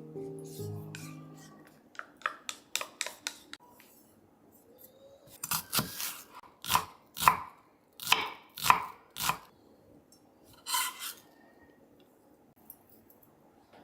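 Kitchen knife chopping potatoes on a cutting board: a quick run of light cuts, then a slower series of louder knife strikes against the board, and one last cut. Background music fades out at the start.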